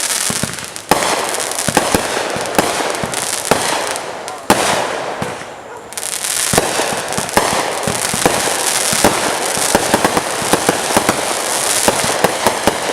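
Fireworks going off in a dense barrage: continuous crackling packed with many sharp pops and bangs, easing briefly near the middle before picking up again.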